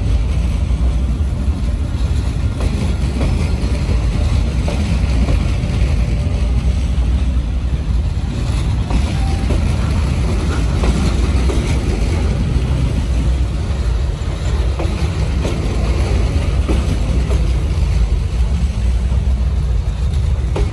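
Vietnam Railways passenger coaches rolling past at close range: a steady rumble of steel wheels on the rails.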